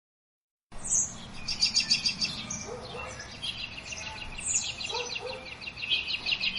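Birdsong alarm tone: small birds chirping and trilling in rapid runs over a faint steady background hiss, starting about a second in.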